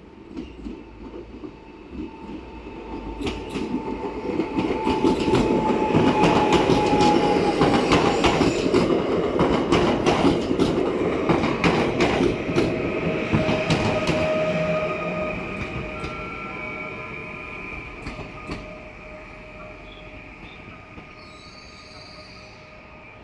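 Gold-liveried passenger train pulling into a station. Its wheels click over the rail joints, growing louder to a peak partway through and then fading. Steady high squealing tones from the wheels and running gear carry on as the noise dies away.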